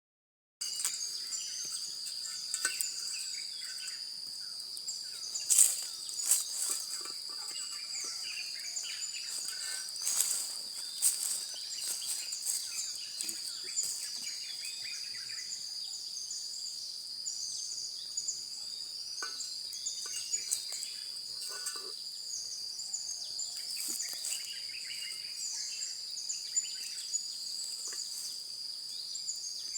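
A steady high-pitched insect chorus trilling without a break, with many short bird chirps over it. A few sharp clicks stand out, the loudest about five to six seconds in.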